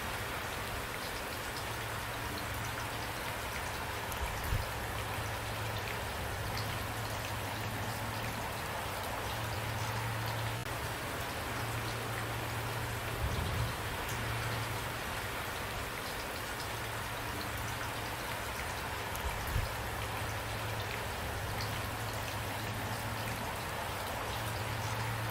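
Steady rain falling, with a few brief soft knocks about 4, 13 and 19 seconds in.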